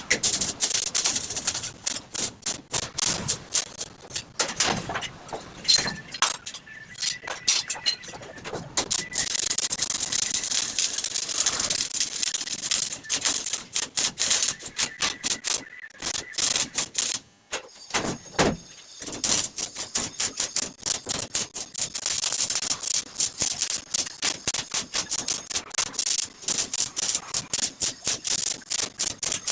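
Electric arc welding: the arc crackles and sputters in a dense, irregular stream of rapid pops. The crackle breaks off briefly about halfway through, twice, then carries on.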